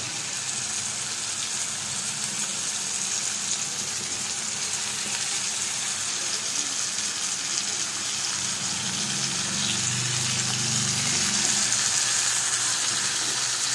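Onion-tomato masala sizzling steadily in a frying pan as raw chicken pieces are added; the hiss grows a little louder toward the end.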